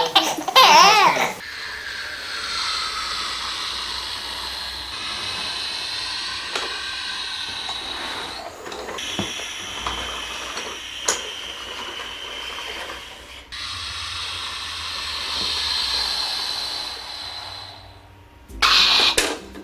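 Jet airplane engine noise: a steady hiss with a high whine, in several joined stretches, that fades near the end. A short laugh is heard at the very start.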